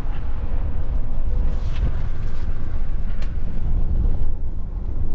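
Steady low rumble of a moving vehicle, with a few faint short ticks.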